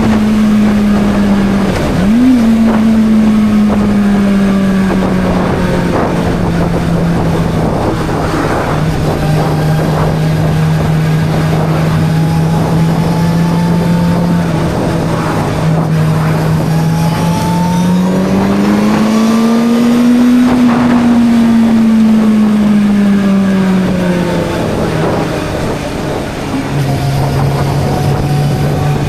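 Suzuki GSR 600 inline-four engine running at steady cruising revs under wind rush. There is a quick blip in pitch about two seconds in, then the revs rise smoothly and fall back again past the middle, settling lower near the end.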